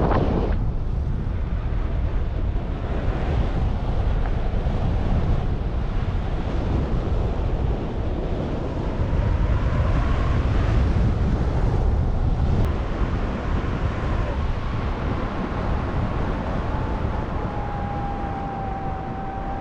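Wind buffeting the camera microphone in flight under a paraglider: a steady, gusting rush that swells and eases. A faint steady tone comes in near the end.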